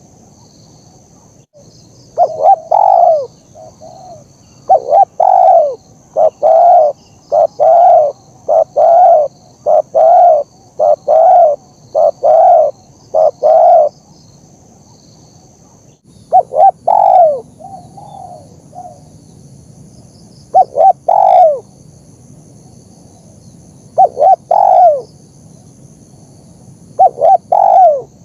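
Spotted dove cooing: a long fast run of repeated coos, then short groups of two or three coos separated by pauses of a few seconds.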